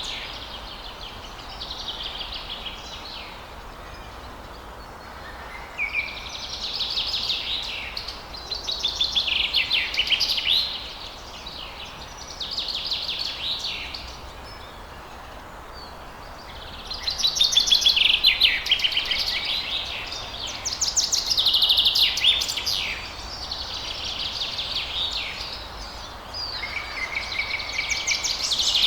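Songbirds singing at dawn: repeated phrases of rapid trills and chirps, each a second or two long with short pauses between, over a steady faint outdoor hiss.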